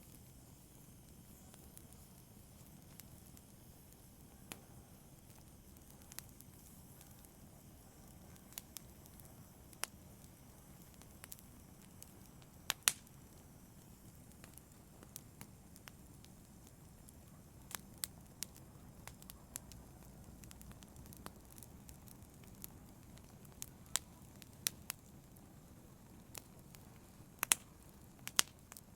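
Wood fire crackling in a fireplace: a soft steady hiss with irregular sharp pops and snaps, a few louder ones about halfway through and near the end.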